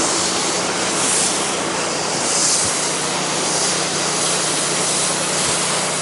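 Pressure washer running and spraying 10% sodium hypochlorite at low pressure through a downstream chemical injector: a steady hum under a spray hiss that swells and fades.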